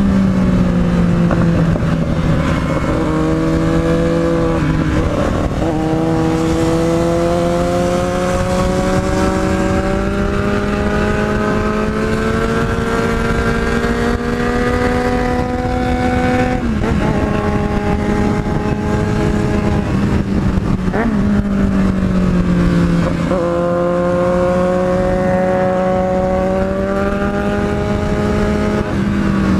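Yamaha MT-03 motorcycle engine heard from the rider's seat while riding. Its pitch climbs slowly and drops back sharply several times as the throttle is rolled on and gears change.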